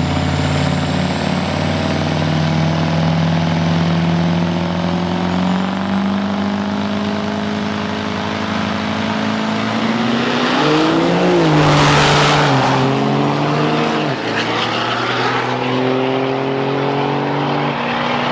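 Turbo-diesel drag trucks running, with a loud engine drone that climbs steadily while a thin high whine rises above it. From about ten seconds in, the engine pitch steps up and down, and the sound is loudest as a truck goes by about twelve seconds in.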